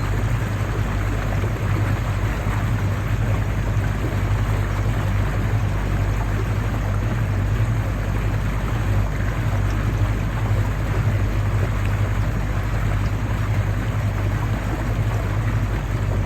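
A small river boat's motor running steadily with an even low hum, over a constant rush of water and wind.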